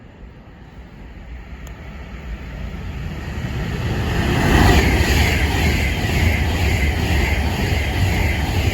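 A train approaching, growing steadily louder over the first four seconds or so, then running past close by, loud and steady, with the low rumble and rolling noise of wheels on rails.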